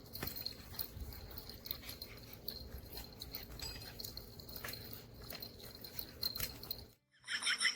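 Faint sounds from a dog, small irregular clicks and scuffles over a low rumble, cutting off suddenly near the end.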